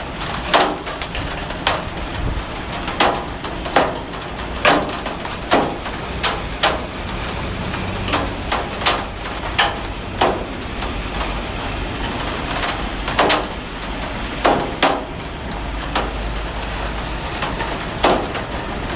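Heavy rain falling steadily, with loud separate drops striking close by at uneven intervals, about one a second, over a low steady rumble.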